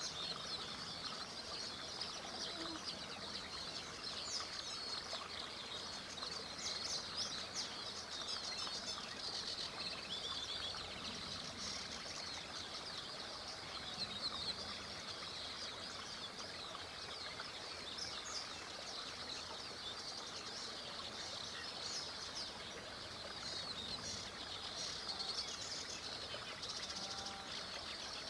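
A dense summer chorus of songbirds: many birds chirping and trilling at once, high-pitched and unbroken. Beneath it runs a steady soft rush of a small river.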